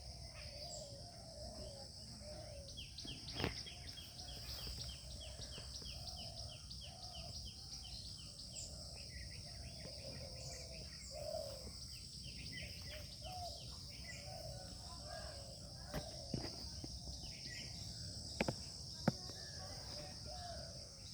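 Outdoor garden ambience: a steady high insect drone with birds calling, including a fast run of short falling chirps a few seconds in. A few sharp clicks stand out, the loudest about three seconds in and a pair near the end.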